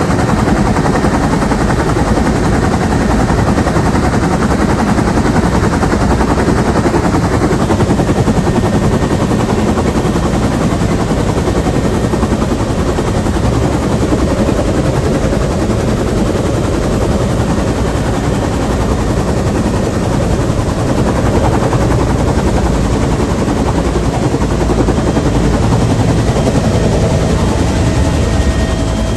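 Bell UH-1 Huey helicopter in flight, heard from inside the cabin: its turbine engine and two-bladed main rotor make a loud, steady, rapid beating.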